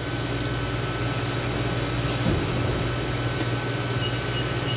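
Steady low hum with an even hiss, like a fan or air-conditioning unit running, with a few faint short high beeps near the end.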